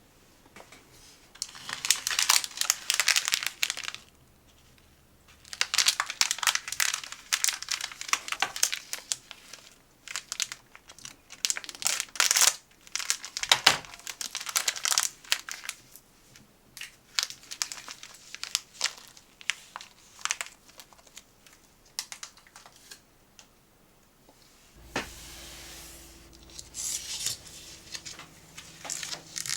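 Snack packaging crinkling and tearing as it is handled and opened, in several bursts a few seconds long with short pauses between. A faint low hum comes in near the end.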